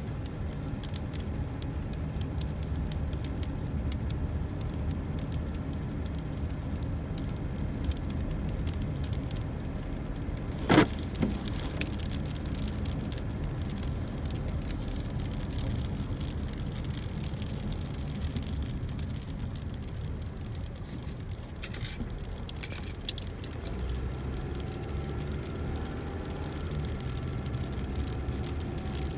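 Car cabin noise while driving: a steady low rumble of engine and tyres on a wet road. A single sharp knock or clunk about eleven seconds in stands out, with a few fainter clicks later.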